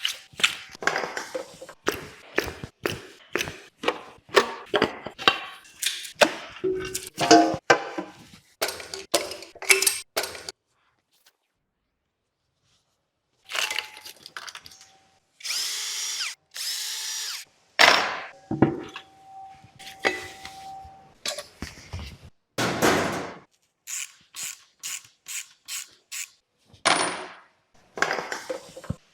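Tools at work on an engine being disassembled: a quick run of sharp metallic clicks and knocks, a silent gap of about three seconds, then several longer power-tool bursts mixed with more knocks toward the end.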